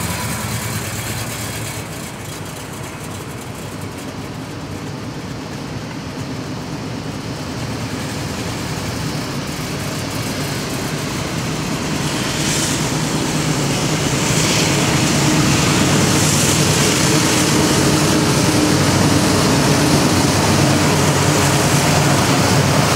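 A Shelby GT350 Mustang's V8 running as the car drives slowly, mixed with a CSX diesel freight train going past. The sound swells gradually over the middle of the stretch, then holds steady as the locomotives pass close by.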